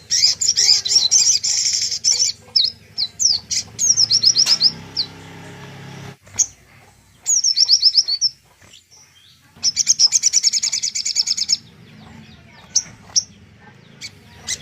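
Songbird song: fast, high, rattling trills at the start and again after about ten seconds, broken by runs of sharp repeated chirps rising in pitch.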